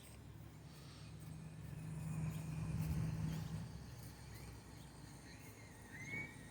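Low, steady motor hum that swells to a peak about three seconds in and then fades, with a short rising chirp near the end.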